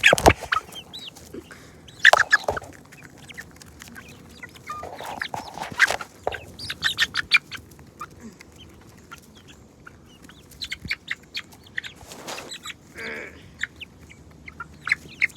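Chickens clucking, with short irregular calls and scattered sharp clicks and pecking-like taps.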